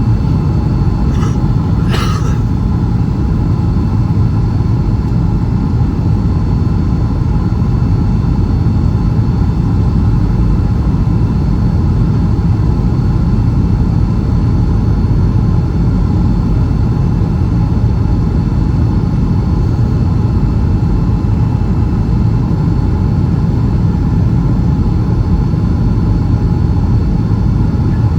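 Steady low rumble of engine and airflow noise inside the cabin of a Boeing 757-300 on final approach, with two faint clicks about one and two seconds in.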